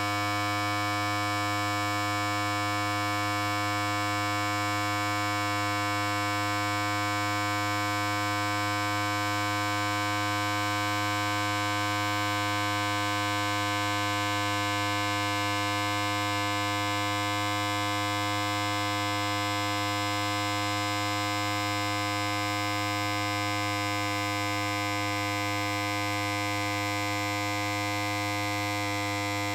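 Electric hair clipper running continuously: a steady, unchanging buzz with a strong low hum and many evenly spaced overtones above it.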